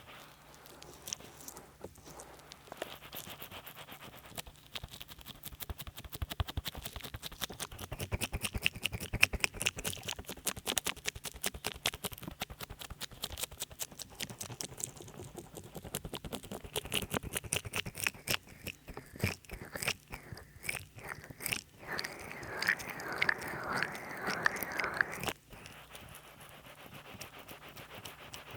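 Oiled hands massaging a binaural microphone: rapid wet squelching and crackling, made sloppy by a heavy coat of massage oil. Near the end a denser, steadier rubbing runs for a few seconds.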